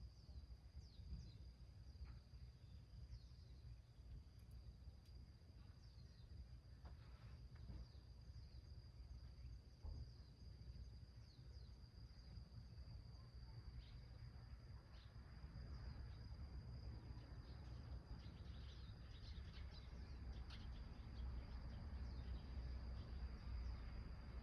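Quiet outdoor ambience: a steady high-pitched insect trill, with faint scattered ticks and crackles that become more frequent in the second half, over a low rumble that grows slightly louder toward the end.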